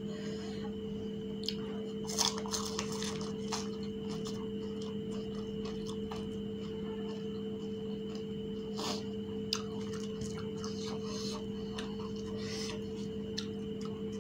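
Crisp fried fuchka (pani puri) shells filled with mashed potato and tamarind water being bitten and chewed: scattered crunches, most around two to three seconds in and again near the end, over a steady background hum.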